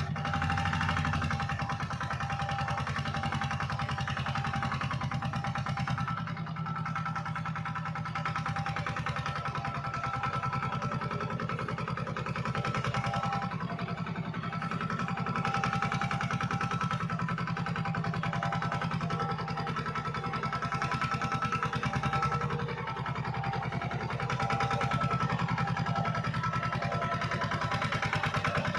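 Tractor engine running steadily, with a constant low drone and a steady higher whine above it.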